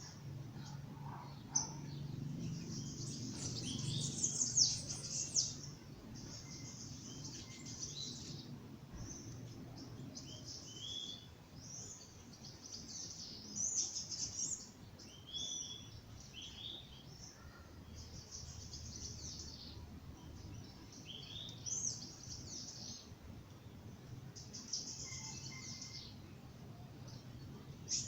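Birds chirping and singing in short, high phrases and trills, one after another, over a faint low background hum.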